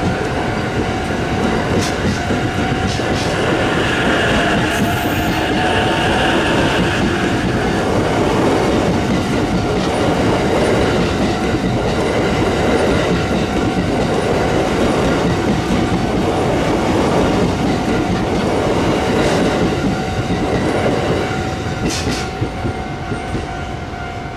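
Electric train running on the tracks, a steady whine over the noise of the wheels; the sound gets quieter near the end.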